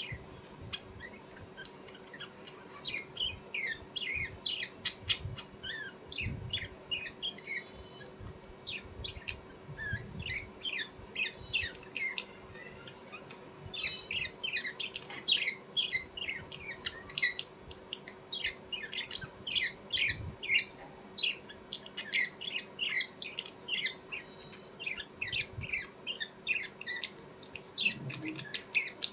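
Birds chirping and squawking in a dense run of quick, short calls, with a brief lull a little before the middle, over a faint steady hum.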